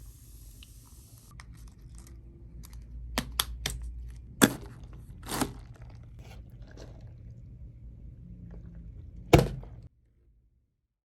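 Clicks and knocks of objects being handled, a few light ones about three seconds in and two sharper knocks about four and a half and nine seconds in; the sound cuts off suddenly near the end.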